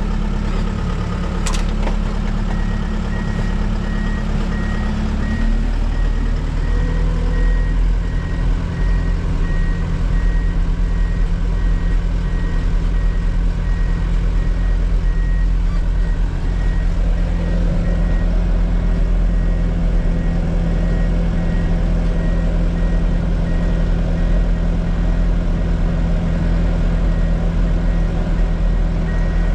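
Heavy diesel engine running steadily; its note steps up and gets louder about five seconds in. A backup alarm starts beeping a couple of seconds in and keeps repeating.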